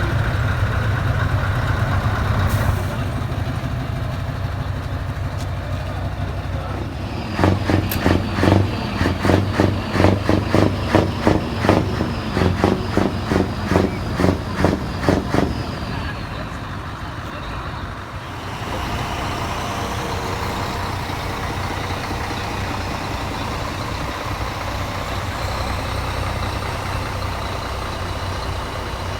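Heavy truck engines running steadily. For about eight seconds in the middle comes a rhythmic pulsing sound, two or three pulses a second.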